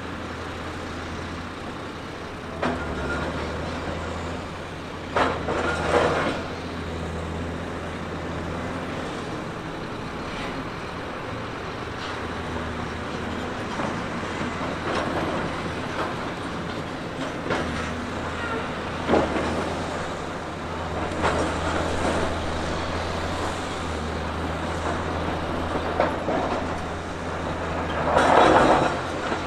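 Heavy earthmoving machine's diesel engine running steadily with a low hum, broken by several louder bursts of noise, the loudest near the end.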